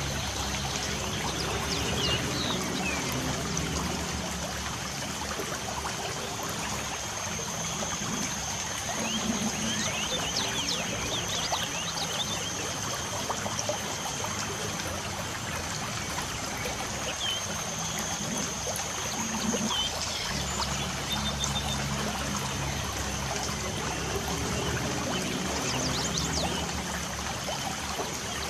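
Light rain falling with a steady patter and trickle of running water, with scattered short bird chirps and a steady high thin tone above it.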